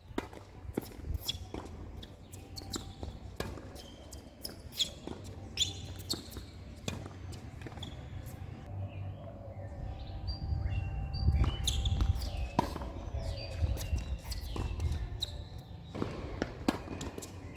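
Tennis balls bouncing on the court and being struck, heard as many sharp irregular knocks, over a steady low rumble, with short high chirps in between.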